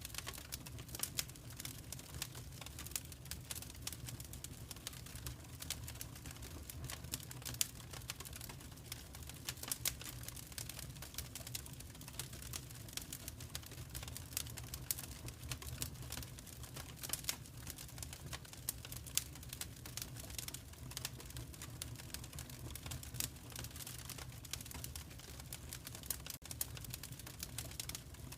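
Wood fire crackling in a fireplace: irregular snaps and pops over a steady low rumble.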